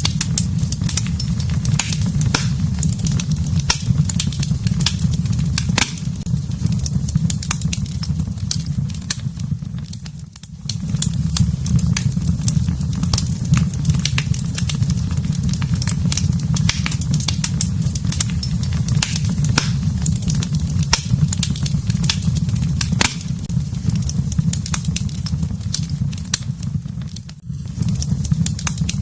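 Fire burning in a fireplace: many sharp crackles and pops over a steady low rumble. The sound dips briefly twice, about ten seconds in and near the end.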